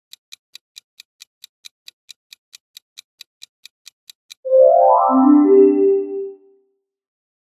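Countdown timer ticking about four times a second, stopping about four seconds in, followed by a short synthesizer jingle of a few notes.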